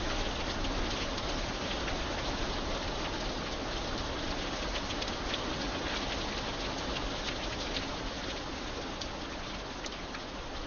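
Steady rain falling, with individual drops ticking sharply now and then over the continuous hiss.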